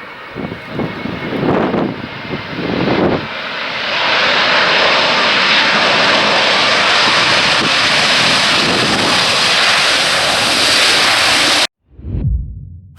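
Jet airliner engine noise, rising about four seconds in and then holding loud and steady before cutting off abruptly near the end. Before it, uneven gusty buffeting of wind on the microphone. After the cut, a brief low whoosh swells and fades.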